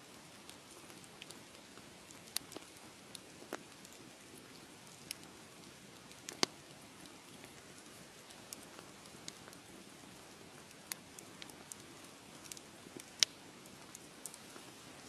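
Wood fire crackling in a fireplace: a soft steady hiss with irregular sharp pops and snaps, two of them louder than the rest, about six seconds in and near the end.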